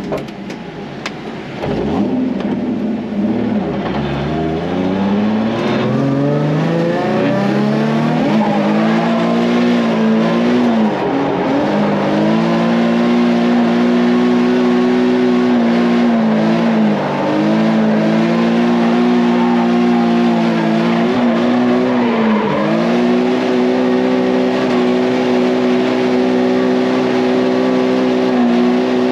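Nissan 350Z's V6 engine under hard throttle on a drift run: the revs climb over the first several seconds, then hold high and steady, dipping briefly three times before coming straight back up.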